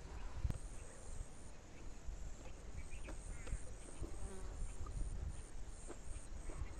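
A person chewing a mouthful of rice and curry, with faint wet mouth clicks, over a low wind rumble and a faint buzz of insects.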